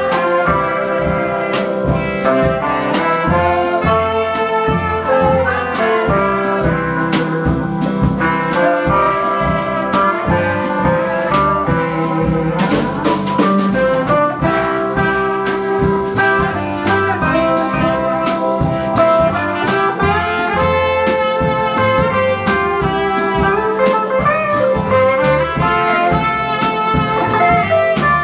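Instrumental swing music: a brass section with trumpet and trombone playing over a drum kit keeping a steady beat.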